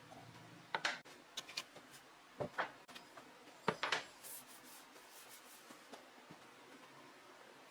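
Light knocks and clicks of objects being handled, about half a dozen in the first four seconds, with a short scrape just after, then only faint room noise.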